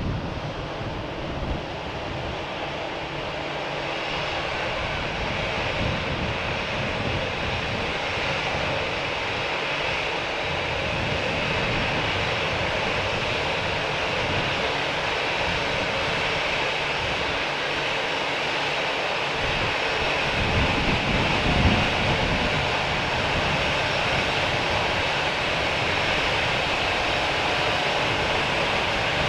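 Jet airliner engines, a steady rushing hiss that slowly grows louder, with wind buffeting the microphone and a stronger gust about twenty seconds in.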